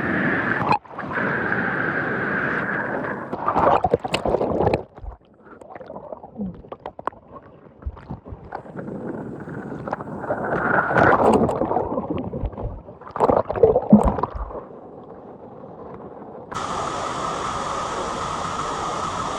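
Creek water rushing and gurgling, its level rising and falling, with scattered knocks. It drops away abruptly about five seconds in and comes back steady and brighter near the end.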